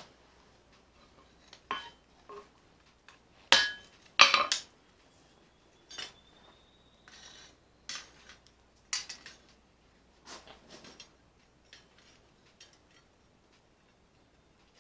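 Metal clanking and clinking at irregular intervals: steel tools and pieces knocking together, two loud clanks about three and a half to four and a half seconds in. After the loud pair, a faint ringing tone hangs on for a few seconds.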